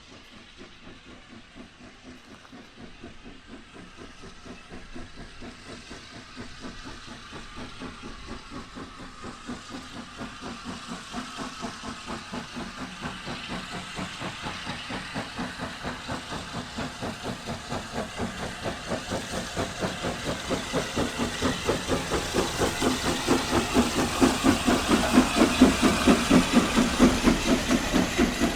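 Steam locomotive working a train toward the listener, its exhaust beats and hiss in an even rhythm growing steadily louder, loudest shortly before the end.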